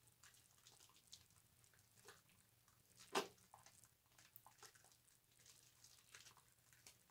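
Faint wet squishing and crackling of bar soap being lathered on a loofah, in small irregular clicks, with one louder squelch about three seconds in.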